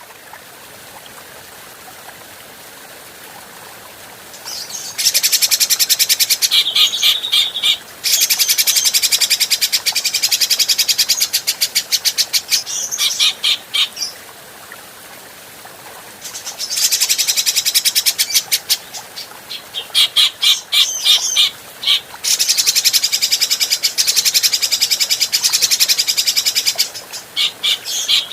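Cucak jenggot (grey-cheeked bulbul) giving loud, very fast rattling chatter in long bouts. The chatter starts about five seconds in, stops for a couple of seconds near the middle, and breaks off briefly a few times later.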